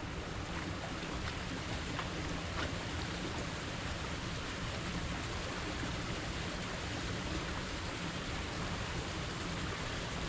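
Steady rain falling, an even hiss with a few faint taps scattered through it.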